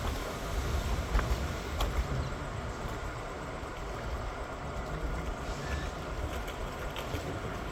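Steady low rumble of a moving vehicle, with a few sharp clicks about one and two seconds in.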